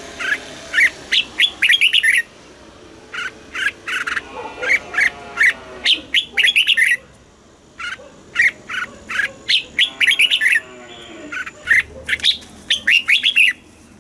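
Red-whiskered bulbul singing: quick runs of short, bright notes grouped into phrases with brief pauses between them. This is the southern master-style song played to rouse caged bulbuls and teach young birds.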